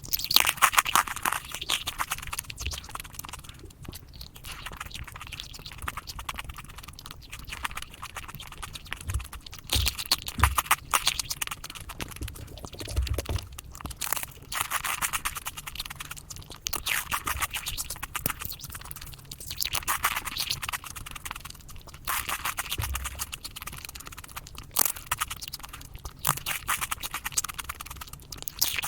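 Close-miked mukbang eating sounds of chocolate being bitten and chewed, played at five times speed so the crunches run together into dense rapid clicking. The clicking comes in bursts a few seconds long, with brief lulls between.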